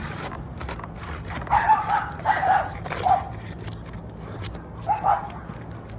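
A dog barking: a quick run of short barks, then a single bark a couple of seconds later.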